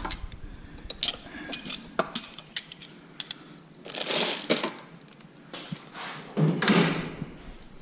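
Small metal hand tools clinking and clattering as they are picked up and handled, in scattered light clicks with two louder rustling bursts, one about halfway through and one near the end.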